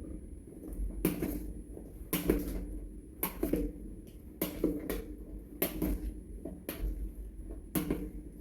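Utensils knocking against a salad bowl in a steady rhythm, about once a second, as a dressed salad is mixed; each knock rings briefly.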